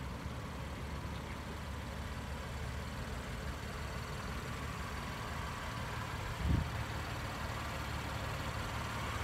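2017 BMW M3's 3.0-litre twin-turbocharged inline-six idling with a steady low rumble. A brief low thump comes about six and a half seconds in.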